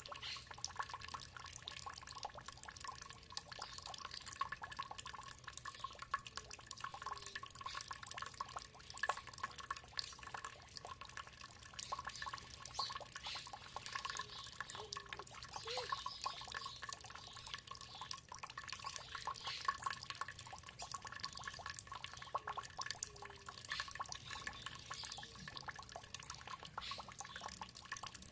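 Water trickling and dripping steadily, with many small drips and splashes close together.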